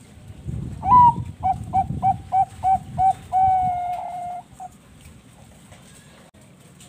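Perkutut bangkok (Thai-bred zebra dove) cooing one song phrase. It opens with a rising note about a second in, runs through about seven quick short coos, holds one long note, then ends with a short final coo.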